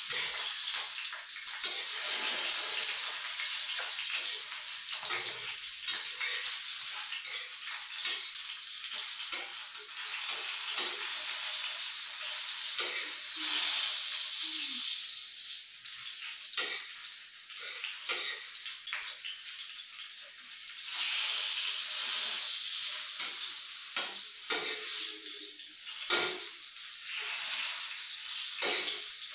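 Green chillies shallow-frying in hot oil, a steady sizzle with frequent crackles and spits of oil, and a few louder pops and spatula clicks as they are turned.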